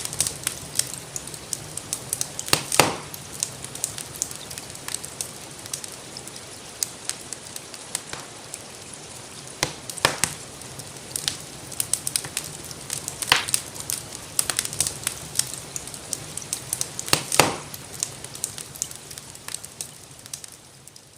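Wood fire crackling, with frequent small clicks and a few louder pops, over a steady hiss of rainfall. It fades out near the end.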